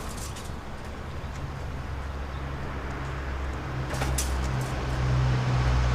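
A motor vehicle's engine running with road traffic noise, growing louder toward the end.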